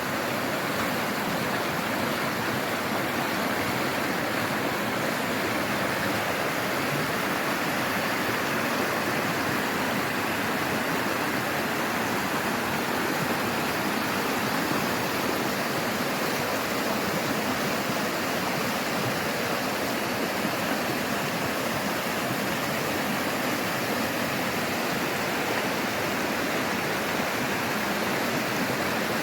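Running water rushing steadily, an even, unbroken wash of sound.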